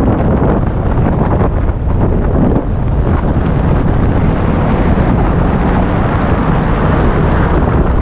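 Heavy wind noise buffeting a helmet-mounted GoPro Hero5 Session's microphone at riding speed, with the Yamaha R1 motorcycle running beneath it.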